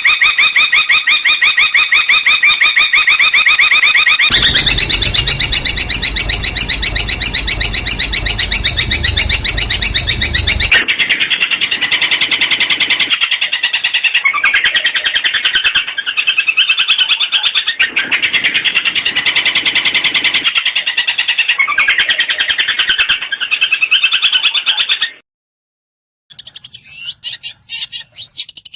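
Long-tailed shrike (cendet) singing loud, fast rattling trills and repeated chattering phrases. The character of the song changes abruptly twice, about 4 and 11 seconds in, as spliced recordings of the 'tembakan' rapid-fire bursts used as masteran training song. A short break comes near the end, followed by fainter calls.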